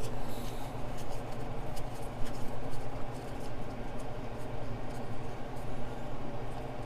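Light, irregular scratching and small clicks of hand-tool work on the exhaust manifold parts, over a steady low background hum.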